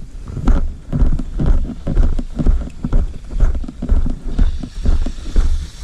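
Footsteps on a rough road, about two steps a second, each a heavy low thump with a short scuff.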